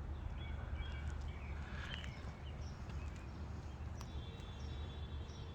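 Outdoor background: a steady low rumble with a few faint bird chirps, and a single sharp click about four seconds in.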